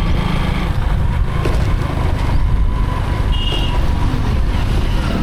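Motorcycle riding through town traffic: a steady low rumble of engine and wind noise on the microphone, with one brief high-pitched beep a little after three seconds in.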